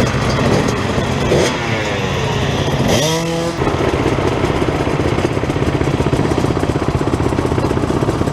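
Dirt bike engines running. One revs with a rising pitch about two seconds in, then a bike idles with a steady, rapid putter through the second half.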